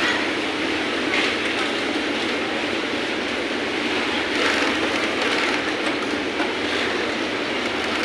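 Sewing machine running steadily at speed, stitching fabric.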